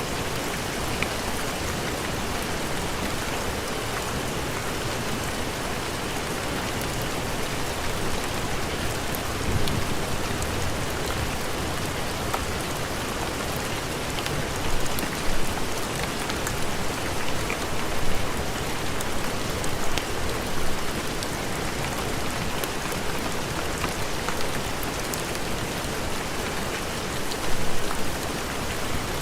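Steady heavy rain, with scattered faint sharp ticks and a few brief louder swells late on.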